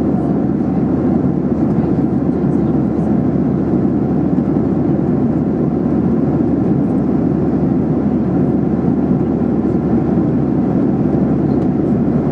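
Boeing 737-800 cabin noise in flight: a steady, loud rush of airflow and CFM56 engine hum, even and unchanging.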